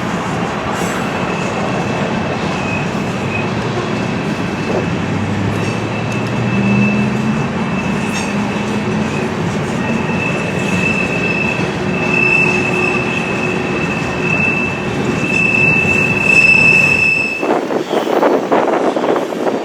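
BNSF freight train rolling past, its wheels squealing on the rails with a high thin tone that comes and goes and is strongest late on. The low rumble drops away near the end.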